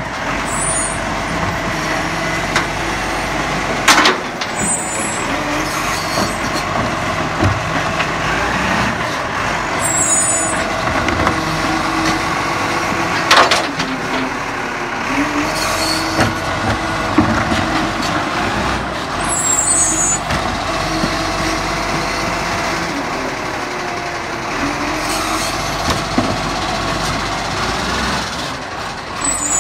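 Recycling garbage truck running steadily, with short hisses of air brakes several times and two sharp knocks about 4 and 13 seconds in.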